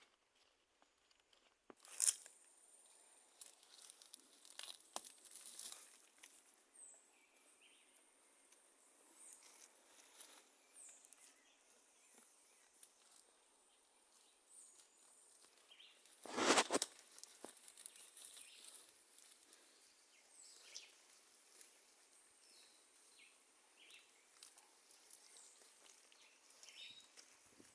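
Faint, scattered rustling and crunching, with a louder sharp knock about two seconds in and another about sixteen seconds in.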